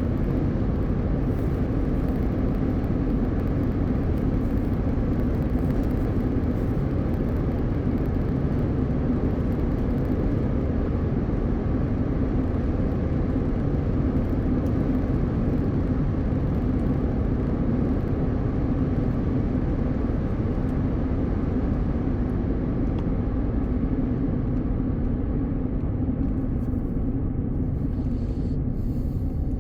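A car driving on the highway: steady road and tyre noise with a low hum, unbroken throughout and turning a little duller near the end.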